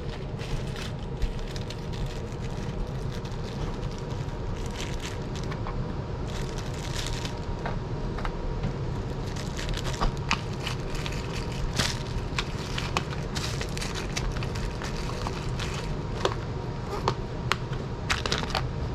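Rummaging through a container of small screws, nuts and washers: many irregular little metal clicks and rattles over a steady low hum.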